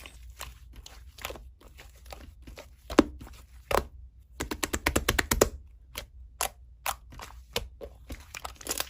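A series of short, irregular clicks and taps, with a quick run of about ten clicks in the middle, over a faint low hum.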